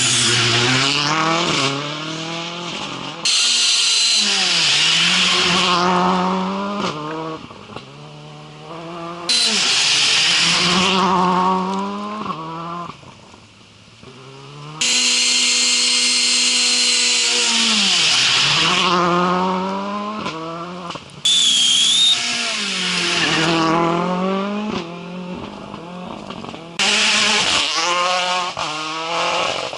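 Rally car engine driven hard, revving up through the gears and dropping back about five times, with a loud hissing rush that cuts in suddenly each time the throttle opens and stops when it closes.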